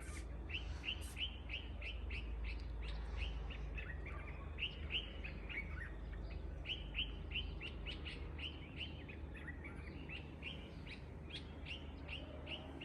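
Small birds chirping: a steady run of short, high chirps, several a second, over a faint low background rumble.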